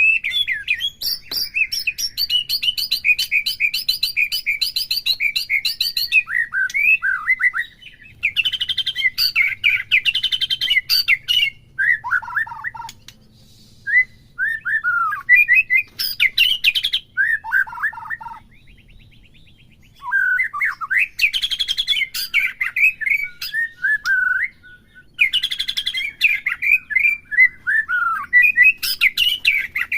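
White-rumped shama singing: long bursts of varied, rapid whistled phrases and chattering trills, broken by a few short pauses.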